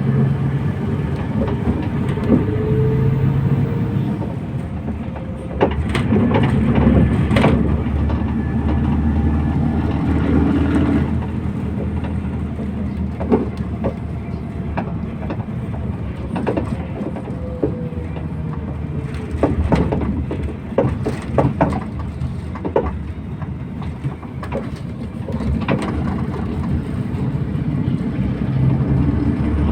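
MAZ 241 bus under way, heard from inside: a steady low diesel engine drone whose pitch shifts as it pulls and eases, over road noise, with scattered sharp knocks and rattles from the body over bumps.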